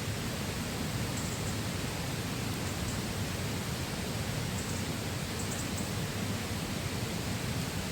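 Steady rushing of a flowing river, an even wash of water noise.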